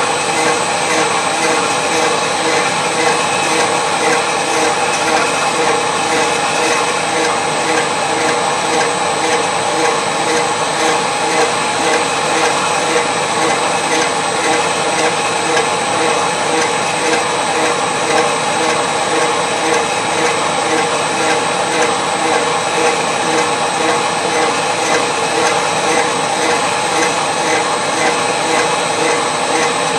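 A metal-cutting machine tool running steadily under cut: a continuous whine with several fixed tones over a fine, even grinding texture.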